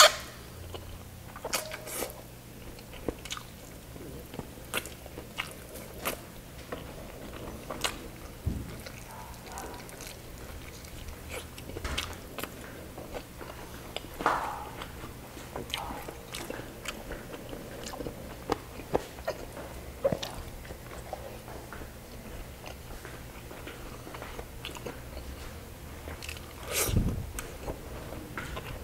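Close-miked chewing of soft rice and chicken eaten by hand. Wet lip smacks and mouth clicks come every second or so, with louder ones about halfway through and near the end.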